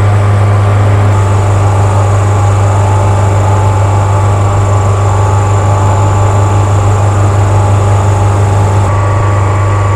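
A boat's engine running steadily with a loud, even low hum.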